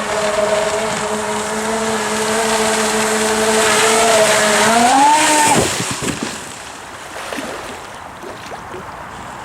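Jet kayak's booster jet drives whining steadily at speed over rushing water. About four and a half seconds in the pitch climbs briefly, then the whine cuts off suddenly, leaving only the hiss of water and wind.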